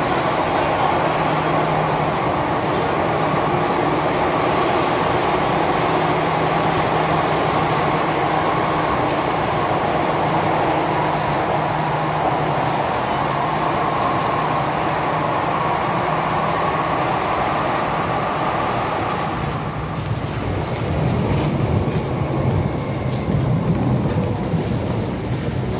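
Interior running noise of an MTR M-train under way: a steady rumble with a low hum underneath. About twenty seconds in it turns rougher and more uneven, with more low rumble.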